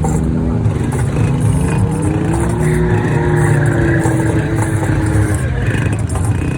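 A car engine running loudly with a steady low rumble, with people's voices mixed in.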